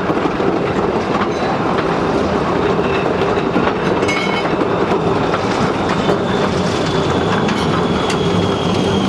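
A train running along the track, with a continuous rolling noise, faint clicks from the wheels and a steady low hum. A thin high whine slowly falls in pitch in the second half.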